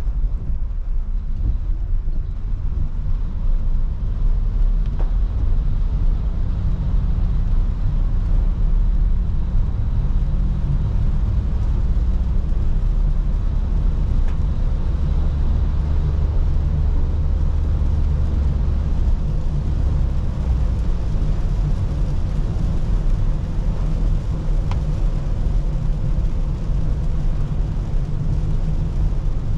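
Car driving in the rain: a steady low road rumble with an even hiss of rain and wet road above it.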